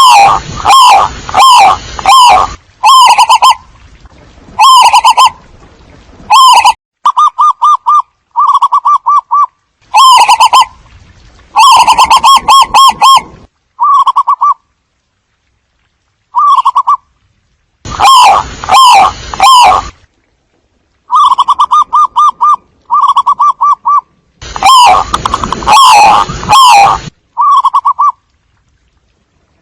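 Zebra doves cooing, a bird-lure recording: loud bursts of rapid staccato coos, each burst lasting about half a second to two seconds with short pauses between, sometimes two birds overlapping.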